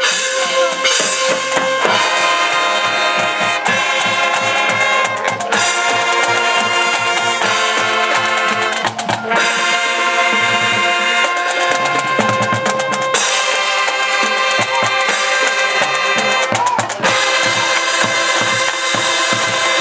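Marching band playing: brass instruments hold a melody over drums beating a steady rhythm, with bass drum strikes underneath.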